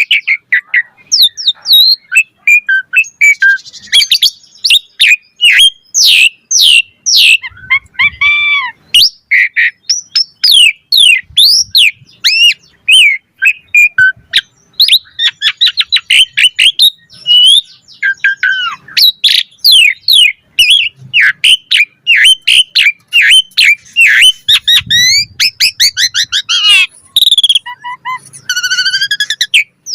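Asian pied starling (jalak suren) singing a fast, continuous, varied song of sharp whistles, chirps and quickly rising and falling notes.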